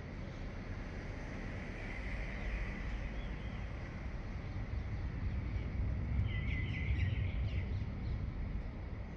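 Birds chirping at dawn over a steady low rumble: a faint call about two seconds in and a quick cluster of chirps about six seconds in.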